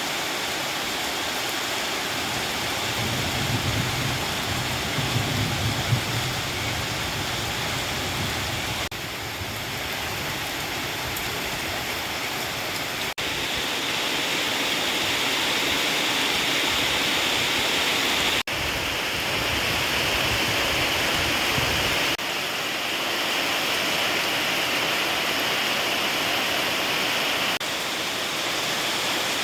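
Heavy rain pouring down in a steady hiss. A low rumble runs under it for much of the first part and is strongest a few seconds in, and the level changes abruptly a few times.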